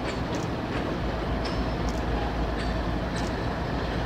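CSX diesel-electric freight locomotives running as the train rolls slowly past: a steady low rumble, with a few brief high clicks and squeaks scattered through it.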